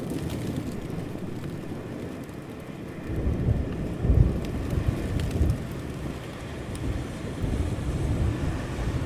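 Steady rain falling, with a low rumble of thunder that swells about three seconds in, peaks just after four seconds, and keeps rolling.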